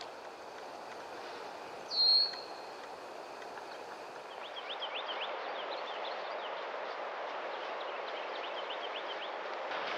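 Wild birds calling over a steady rush of wind: one loud, short whistled note about two seconds in, then from about halfway a run of quick, high chirps that keeps going to the end.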